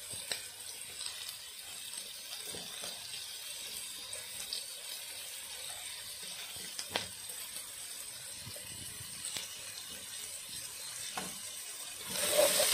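Chopped onion and garlic frying gently in butter in a pot: a faint steady sizzle with occasional small pops and ticks. Near the end the sizzling gets louder as the pan is stirred.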